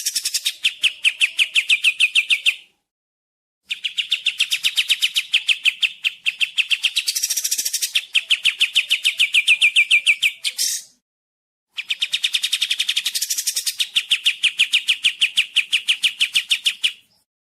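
Kapas tembak songbird singing a fast, even trill of repeated high notes, about ten a second, in three bursts: one ending about two and a half seconds in, a long one of about seven seconds, and a last one of about five seconds near the end.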